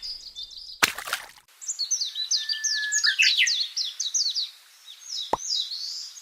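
Songbird singing a fast, dense run of high chirps, each sweeping downward, with a short noisy burst about a second in.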